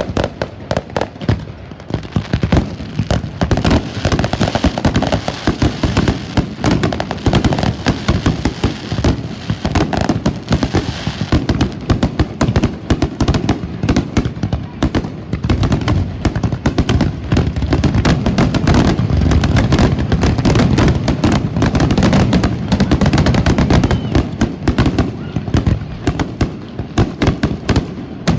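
Fireworks going off in a rapid, continuous barrage of bangs and crackles, many per second, with no pause.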